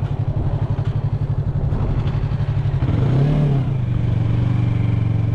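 Yamaha MT-03 motorcycle engine running at low revs with a lumpy, pulsing beat, then rising briefly in pitch about three seconds in before settling to a steady run.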